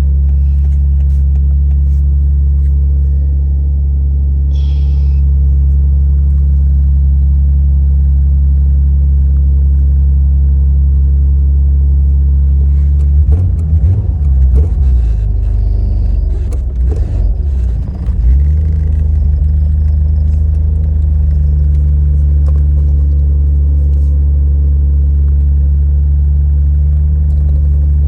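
Nissan Skyline GT-R R33's RB26DETT twin-turbo straight-six idling steadily just after a cold start. A few seconds of uneven rumble and knocks break in about halfway through.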